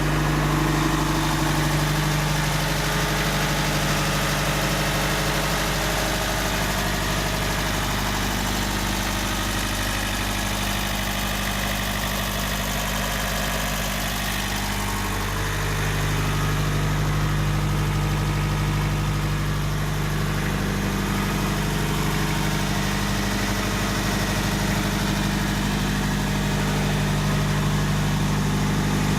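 An engine idling steadily, its note shifting slightly about halfway through.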